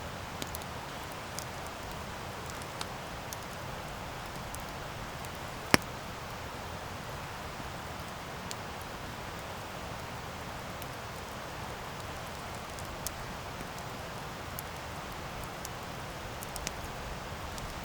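Wood campfire burning: a steady hiss with scattered small crackles, and one loud sharp pop a little under six seconds in.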